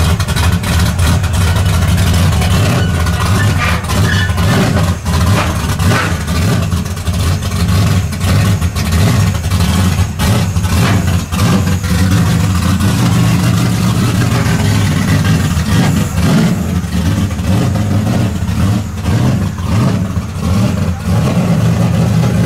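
The engine of an all-motor fourth-generation Camaro running with a steady, loud low rumble as the car is driven down off a trailer on its ramps.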